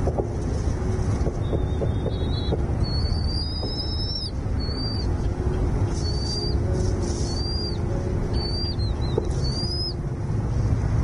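A small bird giving a run of short, high, thin whistled calls, some held and some slurred, repeated every half second or so over several seconds, above a steady low rumble.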